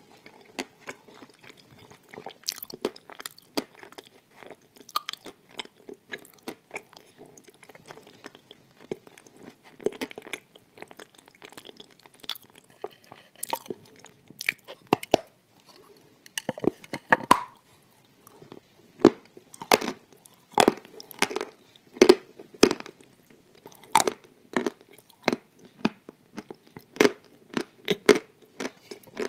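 Pressed white Turkestan clay tiles being bitten and chewed close to the microphone: a run of sharp, crisp crunches, sparse at first and coming faster and louder from about halfway through.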